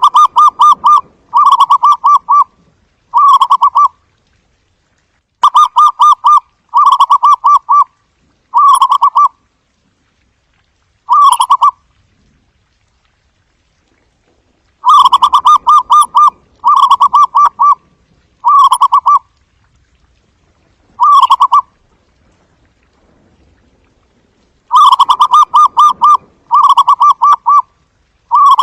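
Zebra dove cooing: rapid staccato, trilled coos in series of three or four, each shorter than the one before, the series repeating about every ten seconds.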